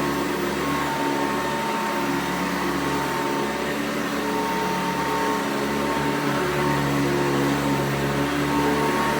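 1991 Hoover Encore upright vacuum cleaner running steadily over carpet, a constant motor hum and airflow rush with a thin steady whine.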